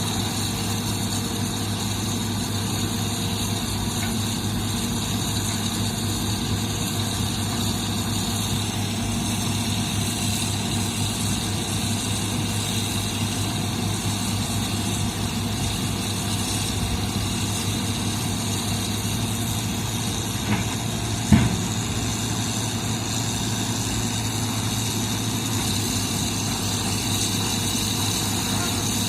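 Heavy equipment engine running steadily, with a sharp knock about two-thirds of the way through.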